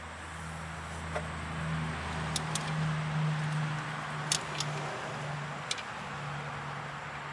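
Steady low hum of a running motor, with about five short, sharp clicks spread irregularly through it.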